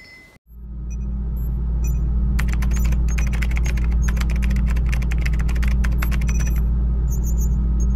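Title-card sound effect: a loud, steady deep drone with a burst of rapid typing clicks from about two and a half seconds in, thinning out near the end.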